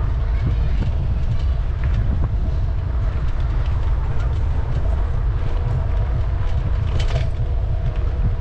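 Steady low rumble of wind buffeting a camera microphone on a moving bicycle, mixed with city street noise, with a few light clicks and rattles; one sharper click comes about seven seconds in.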